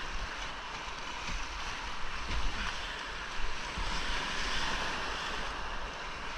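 Rushing whitewater from a creek rapid, a steady hiss and roar, with a few low thumps against the microphone.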